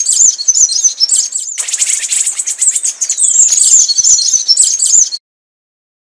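Scrub tanager song: a rapid run of high, thin chirps and twitters, with a short break about a second and a half in. It cuts off near the end.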